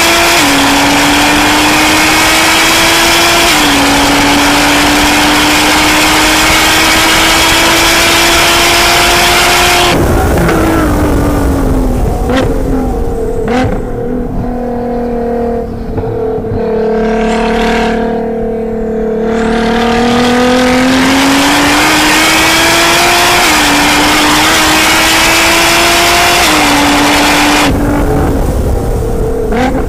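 Nissan GT-R's tuned twin-turbo V6 at full throttle, climbing in pitch with two quick upshifts, then backing off about ten seconds in and falling in pitch through downshifts for a corner. It then accelerates hard again through two more upshifts before lifting off near the end.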